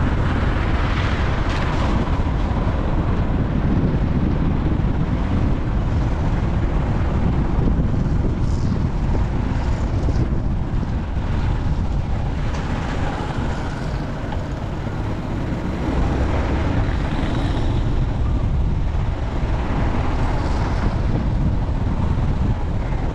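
Steady noise from a moving vehicle, with wind buffeting the microphone.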